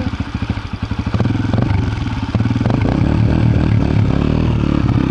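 Dirt bike engine running, getting louder and steadier about two seconds in.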